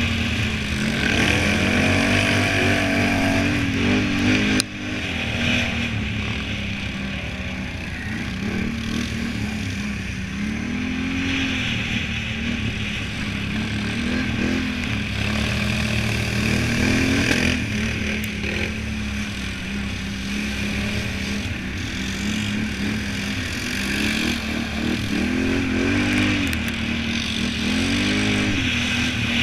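Can-Am Renegade 1000 ATV's V-twin engine revving up and dropping back again and again as it is ridden hard, with a sudden dip in level about four and a half seconds in.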